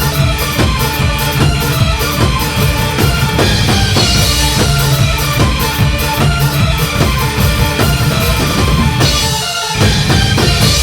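Live electronic rock band playing an instrumental passage with a driving drum kit, bass and synths. Near the end the bass briefly drops out, then the band lands a final full hit that rings on.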